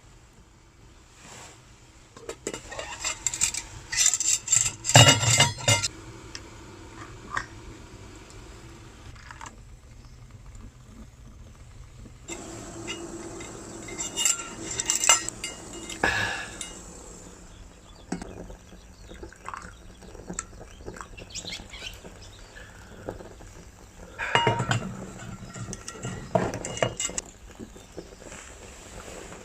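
Metal pots, pans or utensils clinking and knocking together in three short bouts, the first the loudest, with quieter stretches between.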